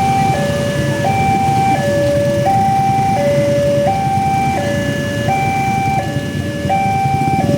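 Railway level-crossing warning alarm sounding a steady two-note hi-lo signal, switching between the notes about every 0.7 seconds, over a low rumble.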